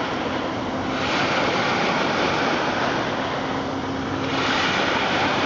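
Steady rushing of Red Sea surf and wind. A faint low hum comes in near the start, drops out, then returns about three seconds in.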